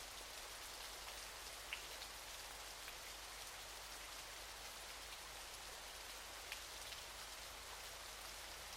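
Waterfall: a steady hiss of falling, splashing water, with a couple of brief sharper splashes standing out.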